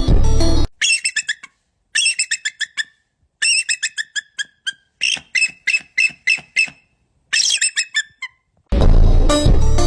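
A bird calling in rapid chattering series of sharp, high notes, five bouts separated by short silences. Loud music breaks in at the very start and again near the end.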